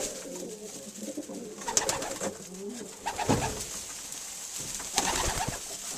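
Racing pigeon cocks cooing in a low, steady murmur, with a few short clicks and rustles.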